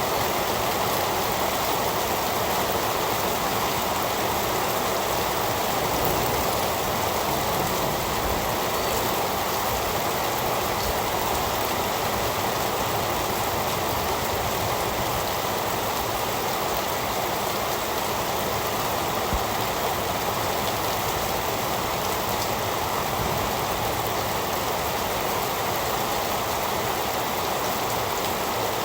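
Steady heavy rain, a dense even hiss of falling rain with scattered drop ticks and no change in strength.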